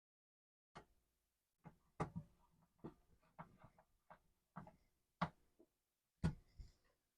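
A string of irregular light clicks and taps from the Commodore 64's metal RF shield being fitted back over the motherboard.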